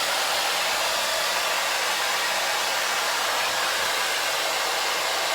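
Hand-held hair dryer blowing, a steady rushing hiss of air.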